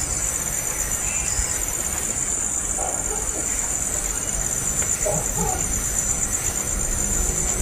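Insects trilling steadily in a high, pulsing drone, with a few faint short sounds about three and five seconds in.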